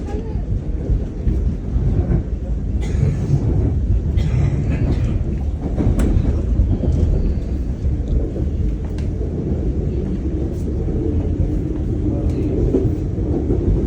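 Steady low rumble of a suburban electric train running, heard from inside the carriage, with a few faint clicks.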